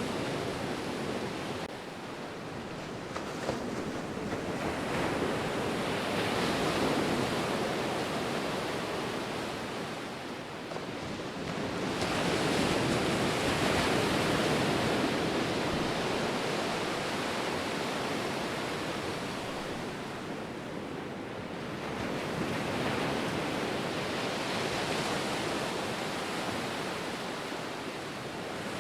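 Ocean surf: waves rolling in and washing out as a continuous hiss that swells three times, each surge building over a few seconds and then easing off.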